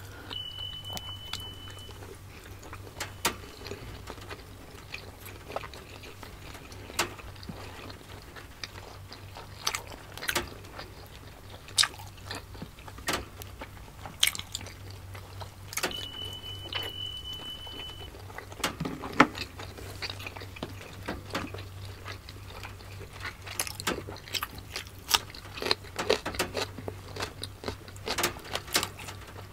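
Close-miked eating: chewing and biting into soft steamed siomai dumplings, with many scattered short wet clicks and smacks over a steady low hum. A short steady high beep sounds twice, near the start and about halfway.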